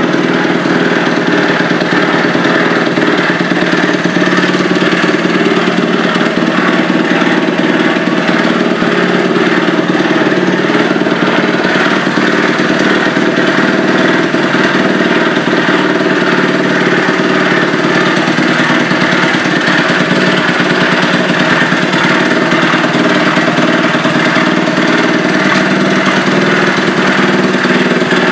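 Small single-cylinder four-stroke Honda engine, bored up to 88cc in a Honda Dax trike, running steadily at idle with no revving.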